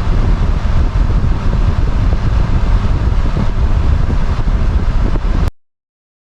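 Wind from a Vornado fan on its highest setting blowing onto a GoPro's microphone with wind reduction switched off. It is a loud, steady wind noise with a heavy low rumble and a hiss above it. It cuts off abruptly about five and a half seconds in, leaving dead silence.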